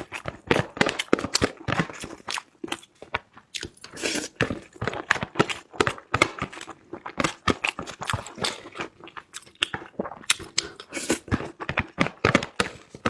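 A person chewing and biting food, with many sharp, irregular crunches and mouth clicks several times a second.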